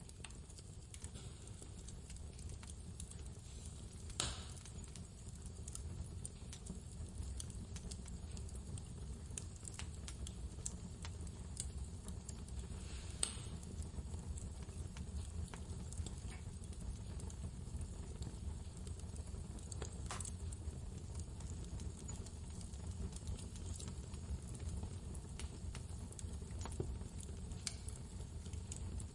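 Wood fire crackling in a fireplace: scattered small ticks and pops, with three louder snaps, over a steady low rumble of blizzard wind.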